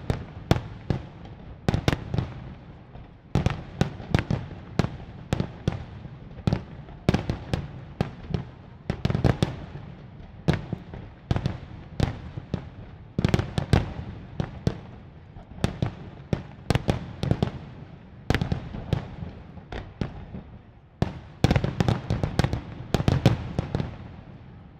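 Aerial fireworks display: shells bursting in rapid volleys, many sharp bangs in close clusters every second or two with a rumbling tail behind them, dying away near the end.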